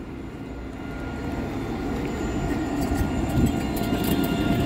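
Electric tram pulling into the stop, growing steadily louder, with a steady whine over a low rumble.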